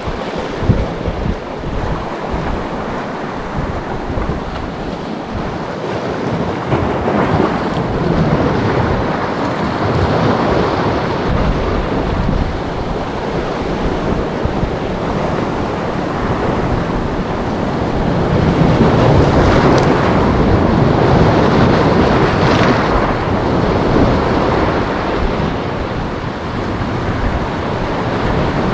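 Wind buffeting the microphone over the rush of sea waves, a steady noise that swells louder for a few seconds about two-thirds of the way in.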